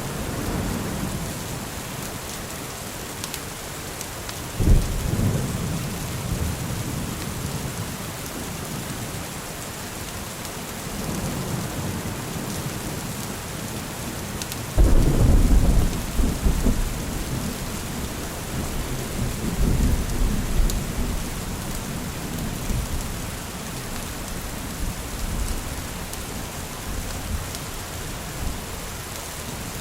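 Steady rain falling, with rolling thunder. A sudden peal comes about five seconds in. The loudest clap breaks about fifteen seconds in and rumbles on for a few seconds, and another rumble follows around twenty seconds.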